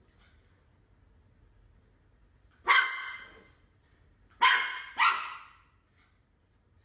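A dog barking three times: one bark a little under three seconds in, then two more close together about a second and a half later.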